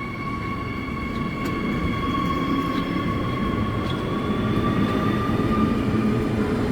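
Transperth B-series electric multiple-unit train pulling away: a steady electric whine rising slightly in pitch over a growing low rumble, with a few sharp clicks from the wheels. It gets louder as the train gathers speed.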